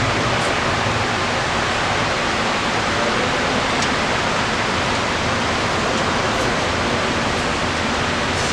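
Steady, loud rushing noise that holds unchanged throughout, with a few faint ticks.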